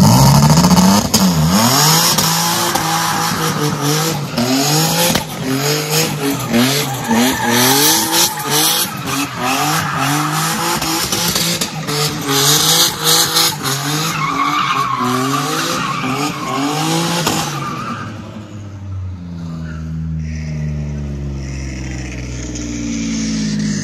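Turbocharged Nissan 350Z drifting: the engine revs up and down over and over, about once a second, with the tyres squealing. About eighteen seconds in the tyre noise stops and the engine carries on more quietly, its pitch slowly falling.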